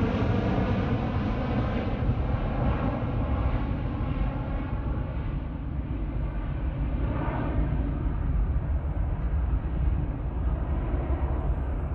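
Jet airliner's engines on takeoff, a steady rumble that slowly fades as the aircraft climbs away, the higher part of the sound dying away first while the deep rumble remains.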